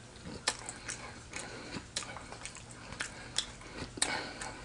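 Close-up chewing of spicy fries: irregular wet crunches and mouth clicks.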